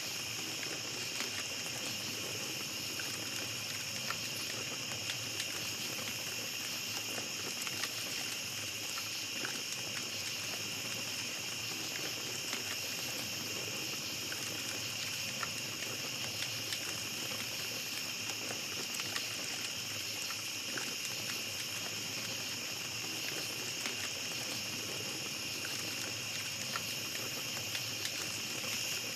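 Small campfire crackling steadily, with scattered light pops and snaps, over a continuous high-pitched chorus of night insects.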